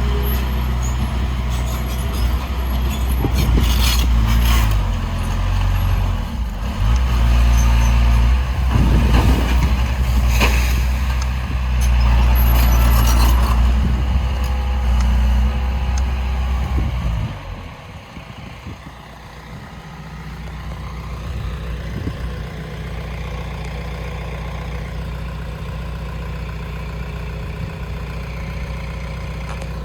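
Heavy diesel earthmoving engine running loud and steady, with several short noisy bursts in the first half. About 17 seconds in it drops to a quieter, steady idle.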